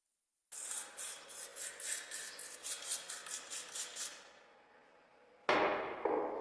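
Rapid hand scraping or rubbing strokes on a small metal toy car, about four a second, fading out after a few seconds. A louder, hiss-like noise starts suddenly near the end.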